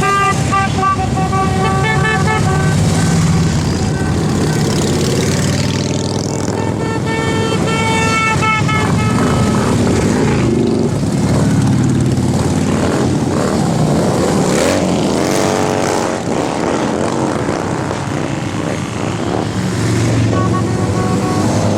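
A group of motorcycles riding past with engines running, along with horns sounding steady notes a few seconds long near the start and again about six seconds in. Engines rev up and down about two thirds of the way through.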